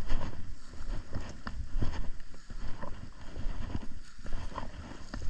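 Wind buffeting the microphone, with irregular footfalls and rustling of someone walking through field cover.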